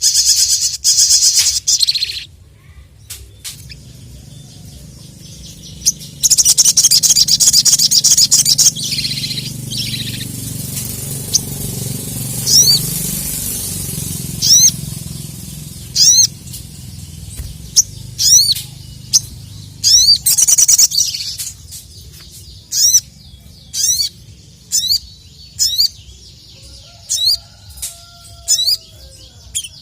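Sogon (ruby-cheeked sunbird) singing: two loud bursts of rapid, high chattering, then a run of short, sharp high notes about one a second.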